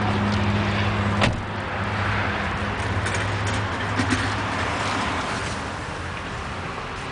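A motor vehicle's engine running with a steady low hum, which fades after a few seconds, under outdoor background noise. A single sharp click comes a little over a second in.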